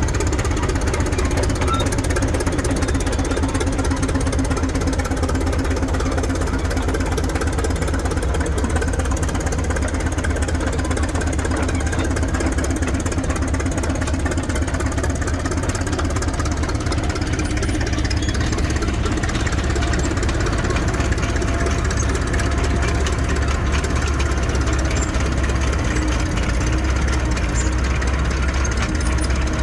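An engine running steadily at low speed, with an even, rapid beat.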